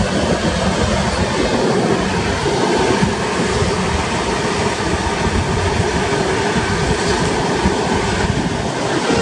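Express passenger train running at speed, heard from aboard at an open coach door or window: a steady, dense noise of wheels running on the rails.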